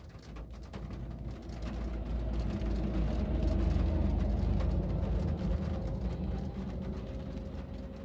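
A vehicle drives past, its engine and tyre noise swelling to a peak about four seconds in and then fading away.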